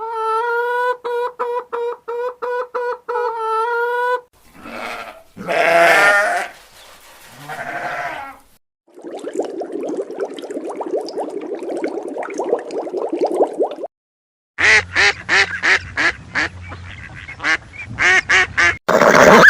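A run of several different animal calls, one clip after another, each a few seconds long and cut off abruptly. It opens with a steady high-pitched call repeated in quick even pulses, then a long dense stretch of overlapping calls, then a series of short sharp calls.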